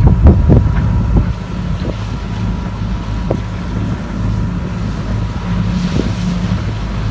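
Sailboat's inboard engine running steadily as a low hum while the boat motors in very light wind, with wind buffeting the microphone.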